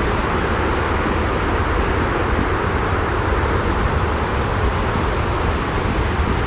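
Steady, unbroken white-noise rumble with a heavy low end and a hiss above it, unchanging throughout.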